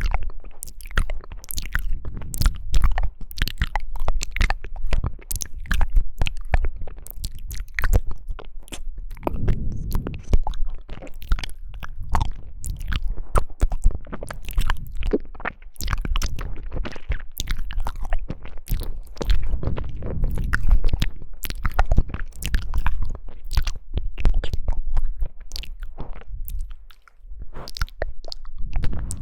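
A person chewing and biting jelly close to the microphone: a dense, uneven run of sharp crackly clicks over low mouth noise, with a short lull a little before the end.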